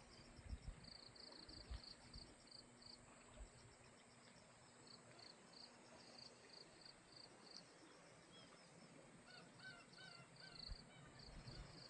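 Faint insect chirping, a regular train of short high pulses running throughout, with a bird giving a quick run of short honking calls about two-thirds of the way in.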